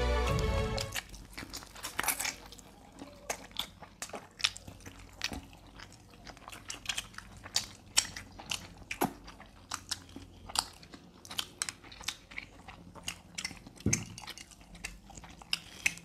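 Close-miked eating of barbecued chicken: wet chewing and crisp bites at an irregular pace. A music bed ends about a second in.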